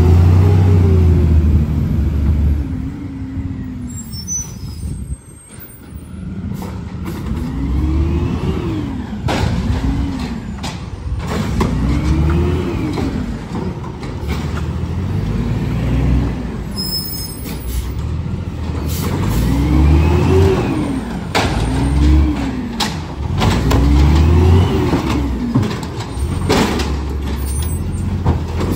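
Heavy truck engine, likely a garbage truck's, revving up and falling back again and again, roughly every couple of seconds, with scattered clanks and knocks.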